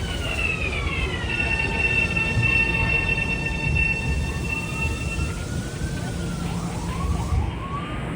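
Metro-North electric commuter train running through the station: high whine and squeal from its wheels and motors that falls in pitch over the first second, holds steady, then gives way to wavering, sliding squeals near the end, over a steady rumble.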